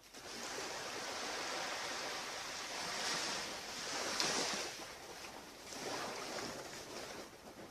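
Ocean surf washing onto a beach, a steady rush that swells a few times and eases off near the end.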